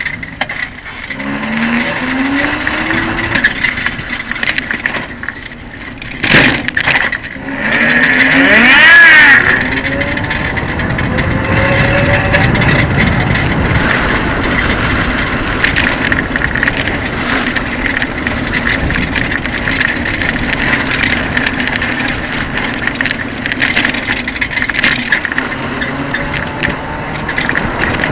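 Small 150cc engine of a motorcycle trike running on the move, revving up in pitch twice as it accelerates, then holding a steady drone.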